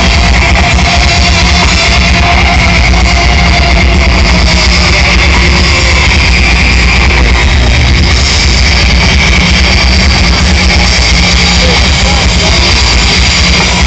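Loud live rock music with electric guitar and drum kit over a PA system, heavily overloaded and distorted on the phone's microphone.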